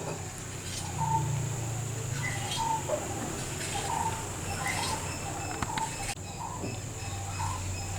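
Birds chirping, short calls repeated about once or twice a second, over a steady low hum and a faint high whine.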